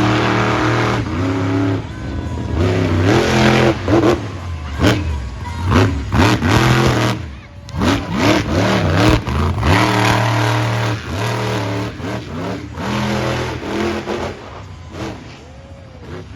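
Monster truck engines revving hard in repeated bursts, the pitch climbing and dropping again and again with short lulls between.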